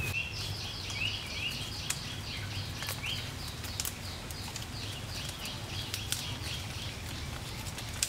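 A bird calls a long run of short, high chirps, about three a second, with a few light clicks and knocks of bamboo being handled.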